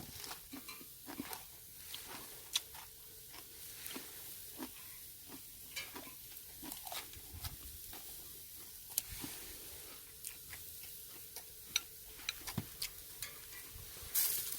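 Sporadic crackles and small pops of pork neck grilling over a charcoal brazier, with a brief louder rush near the end.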